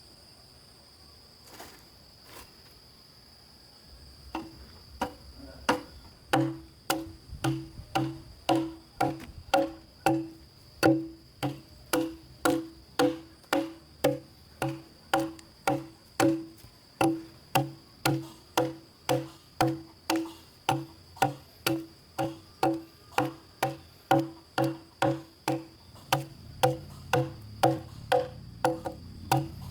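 Steady, evenly repeated knocking blows, about three every two seconds, each a sharp knock with a ring of pitch to it. They begin a few seconds in and go on to the end. An insect's high, steady whine runs under them throughout.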